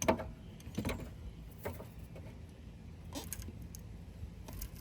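A few scattered light clicks and knocks from hand work on the power steering lines in a car's engine bay, as the lines are pulled off to drain the fluid.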